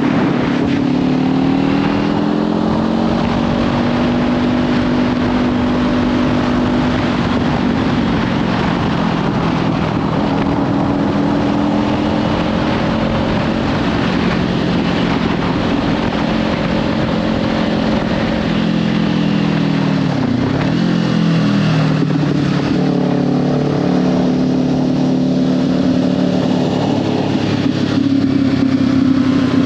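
Kawasaki Ninja 500's parallel-twin engine running at road speed through a Leovince slip-on exhaust, under heavy wind noise on the microphone. The engine note holds mostly steady, drops and climbs back about two-thirds of the way through, and rises again near the end.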